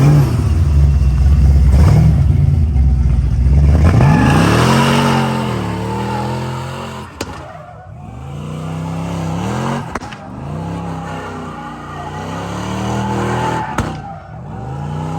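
A car engine run hard: a heavy low rumble for the first few seconds, then the revs climb and fall sharply again and again, about every three seconds, with a short click at each drop.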